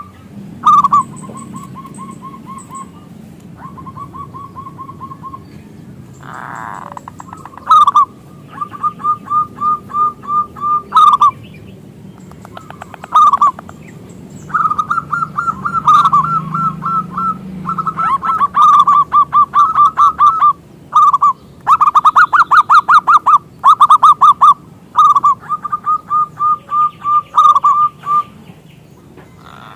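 Zebra dove (perkutut) cooing: loud series of rapid, staccato pulsed notes, some short and some drawn out into long rattling runs, repeated again and again. Faint high chirps from another bird sound in the background.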